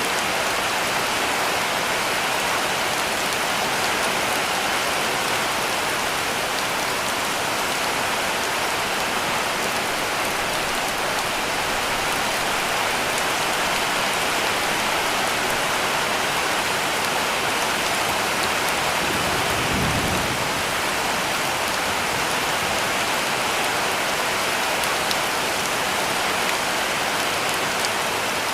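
Heavy rain falling steadily on a cabin roof, a dense even patter. A brief low rumble swells and fades about two-thirds of the way in.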